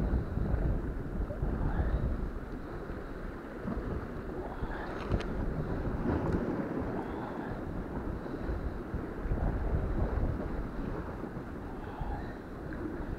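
Wind buffeting the microphone over a steady wash of the sea, with one small sharp click about five seconds in.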